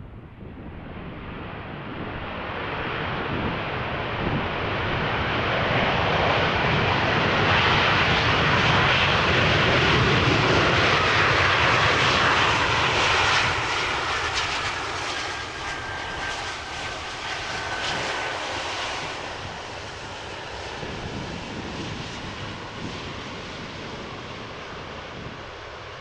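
Airbus A330-300 jetliner with Rolls-Royce Trent 700 engines passing close by on its landing approach. The jet noise swells to a peak about halfway through and then fades, and a thin falling whine is heard in the second half.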